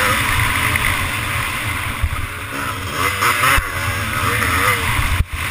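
Motocross bike engine revving up and down as the throttle is worked over the track, with wind rushing over the microphone; the sound drops out briefly near the end.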